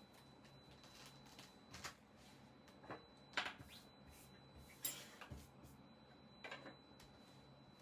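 A handful of short, irregular handling sounds, soft scrapes, rustles and light knocks, from a zippered synthetic-leather Bible cover being worked on by hand as it is taken apart. The two loudest come about three and a half and five seconds in.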